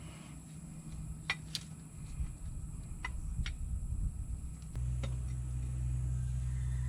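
Scattered light clicks and taps of metal brake parts and tools being handled during brake reassembly. A steady low hum comes in about two-thirds of the way through.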